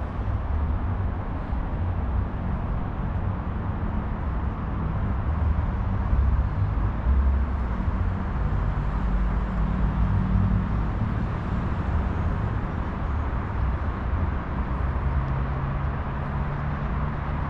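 Steady road-traffic noise from passing cars, heaviest in the low end, swelling a little around the middle.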